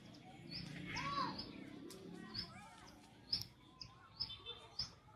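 Birds chirping in short repeated calls, with a few sharp clicks and taps between about three and five seconds in.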